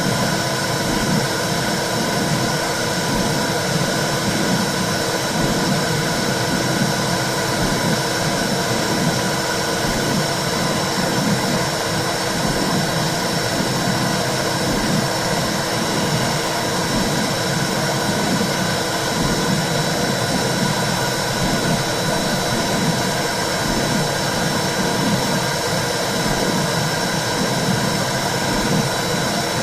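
Womb sound for soothing a baby: a steady whooshing noise with a fast, uneven pulsing in the low range.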